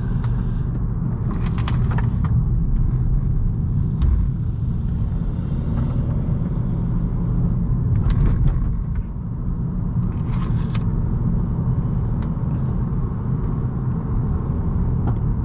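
A 2018 Honda Accord 1.5T's turbocharged four-cylinder engine and road noise as the car is driven along a winding road, a steady low drone with a few brief hissy bursts over it.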